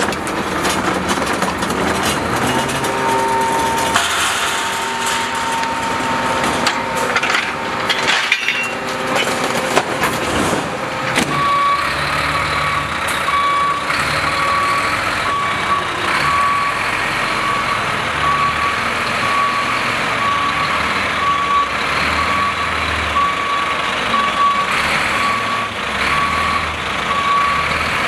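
Garbage truck at work: dense mechanical noise with repeated knocks for the first ten seconds or so. Then its reversing alarm beeps steadily, about once a second, over the running engine.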